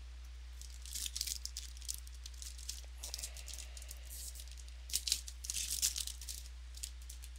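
Trading cards and packs being handled: crisp rustling and flicking, in two spells about a second in and about five seconds in, over a steady low hum.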